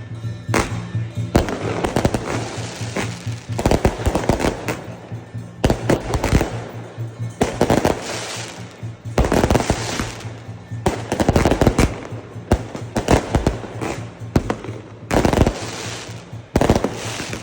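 Fireworks going off in several waves of rapid bangs and crackle, with music underneath.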